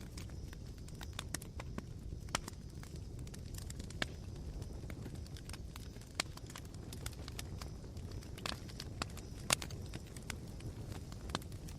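Campfire embers smouldering, giving sharp, irregular crackles and pops over a low steady rumble. The loudest pop comes about three-quarters of the way through.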